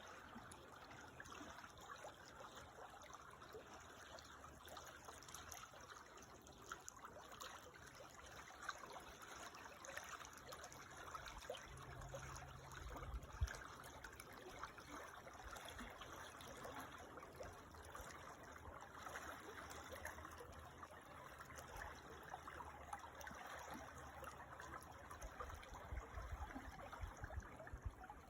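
Creek water trickling and babbling over stones, a faint steady rush. A few low rumbles come through about halfway and again near the end.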